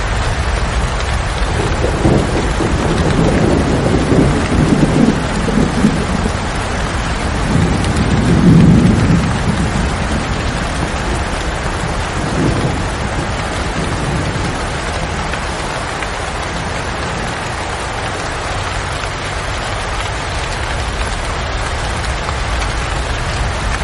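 Steady rain with a low rolling rumble of thunder that builds over the first several seconds, peaks around nine seconds in, and dies away by about thirteen seconds.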